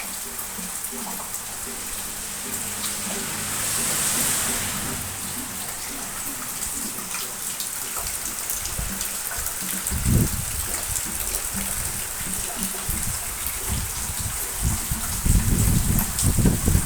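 Rain beginning to fall: a steady hiss with many separate drops heard as light ticks. Low thumps come in about ten seconds in and again near the end.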